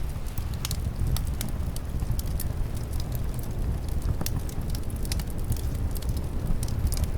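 Fireplace crackling, with many sharp irregular pops and snaps over a steady low rumble.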